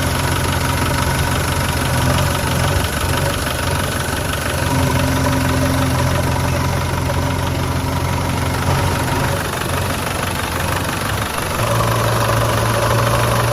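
Truck engine idling steadily with a low, even hum; the note dips briefly and shifts slightly about eleven seconds in.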